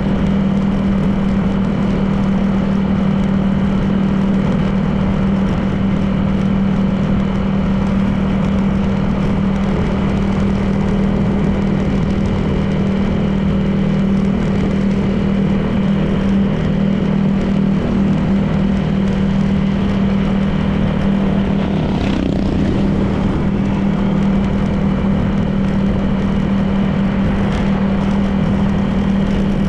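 Honda PCX 160 scooter's single-cylinder engine running at a steady cruising speed, with road and wind noise. A brief louder sweep about two-thirds of the way in, like a vehicle passing.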